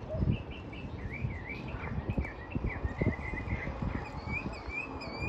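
Songbirds singing a steady run of quick, chirping notes that slide up and down in pitch, with wind buffeting the microphone in low thumps.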